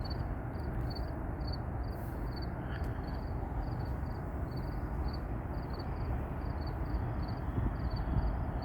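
Insects chirping steadily, about three short high chirps a second, over a low steady background rumble.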